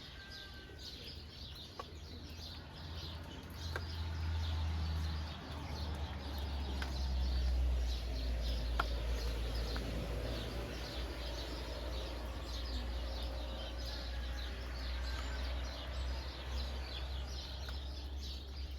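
Birds chirping and calling over the patter of rain in open countryside, with a few sharp drip-like ticks. A low rumble comes in underneath about four seconds in and carries on.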